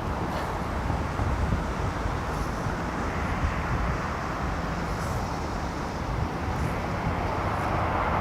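Gusty storm wind buffeting the microphone: a low, rumbling rush of noise that rises and falls with the gusts, without any distinct tone.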